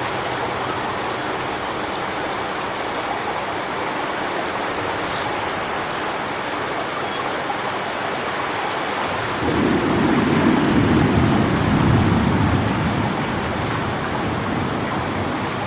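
Strong wind rushing steadily through coconut palm trees ahead of a storm. About ten seconds in, a deep rumble swells up for about three seconds, then fades back into the wind.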